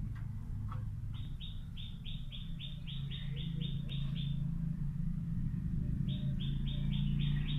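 A bird calling a rapid series of short, repeated chirps, about four a second, in two runs with a pause between them. A steady low hum runs underneath.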